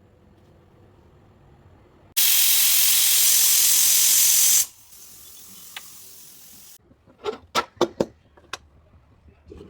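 A loud burst of hissing steam that starts and stops abruptly, about two and a half seconds long, fading to a fainter hiss. This is followed by several sharp clinks of kitchen utensils.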